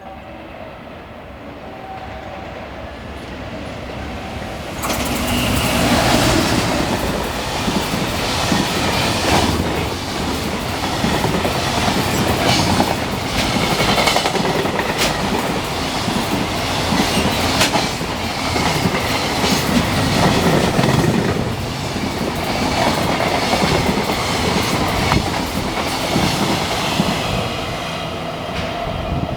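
Freight train running through a station. It approaches with rising noise, the locomotive passes close about five seconds in, and then a long string of wagons clatters by with repeated clickety-clack over the rail joints. It begins to fade near the end.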